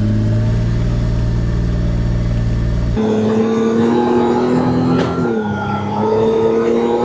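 Ram 5500 truck's engine running as it drives, a steady drone. About three seconds in the sound changes abruptly to a higher, thinner drone, and the pitch dips briefly and recovers a couple of seconds later.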